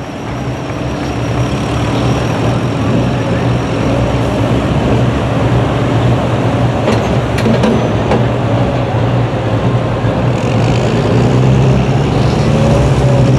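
Pickup truck engine at a truck pull running loud and steady, slowly getting louder toward the end.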